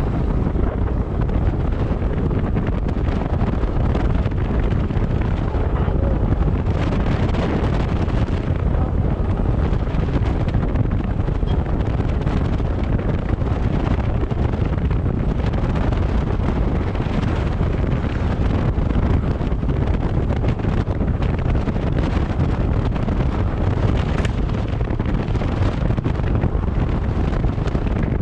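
Steady wind rushing over the microphone of a moving vehicle, with road and engine noise underneath.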